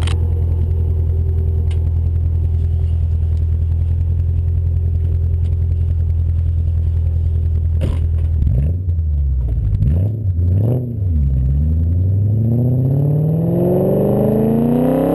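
BMW M5 V8 engine idling steadily, then blipped a few times in quick revs, then pulling hard under acceleration with its pitch climbing steadily through the last few seconds.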